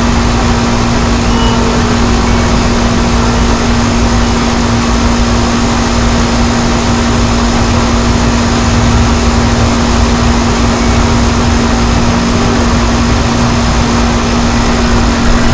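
Strong wind rushing and buffeting the microphone, loud and steady, with a constant low hum underneath.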